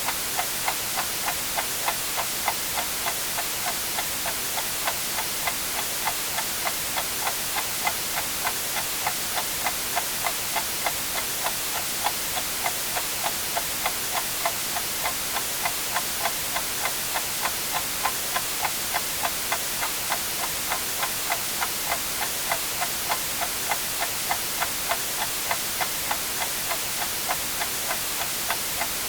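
A clock ticking steadily, about two ticks a second, over a constant hiss of white noise.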